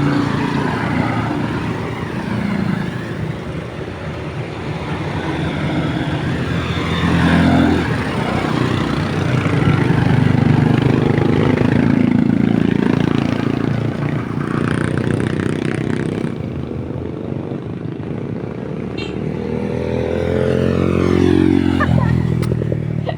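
Motorcycle engines running as a line of motorcycles passes by, the sound swelling and fading as they go. One engine revs up, rising in pitch, near the end.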